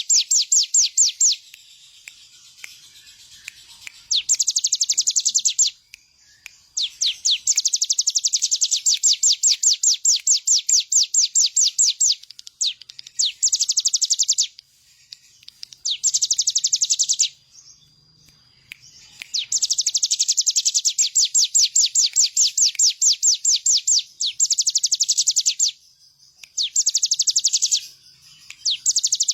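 Ciblek gunung (a prinia) singing: fast, even trills of sharp high notes in repeated bursts of one to five seconds with short pauses between them.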